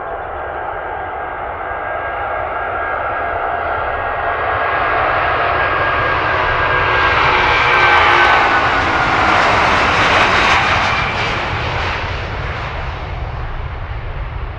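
Airliner's engines passing close by. The noise swells to a peak about eight seconds in, its engine whine sliding down in pitch as it goes past, then fades.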